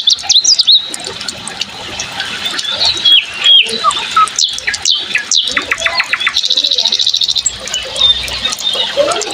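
Several birds chirping and calling: short sharp whistles and chirps, some sliding down in pitch, with a fast trill about six and a half seconds in.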